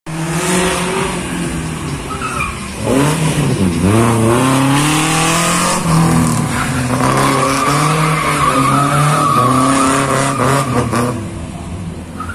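Rear-wheel-drive car on a slalom course: engine revving up and down as it brakes and accelerates through the turns, with tyres squealing for several seconds in the second half.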